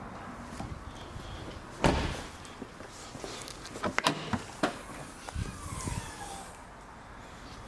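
A car door shutting with a single loud thump about two seconds in, followed by several lighter clicks and knocks.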